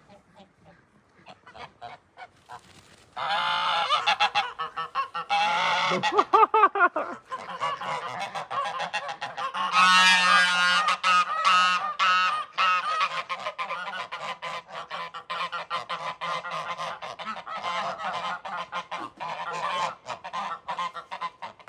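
Domestic geese honking, a run of loud repeated calls that starts about three seconds in and keeps going. The calls are loudest about ten seconds in.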